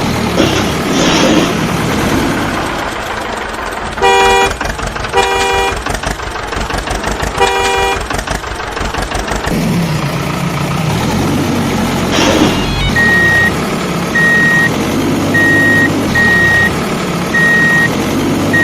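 Cartoon vehicle sound effects: an engine running, a horn tooting three short times, then a high beep repeating about once a second.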